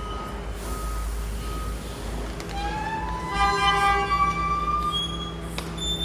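Garbage truck engine running steadily, with a few short beeps near the start. From about two and a half seconds in, a loud squealing of high tones rises and falls for a couple of seconds, typical of the bin-lift and compactor mechanism working under load.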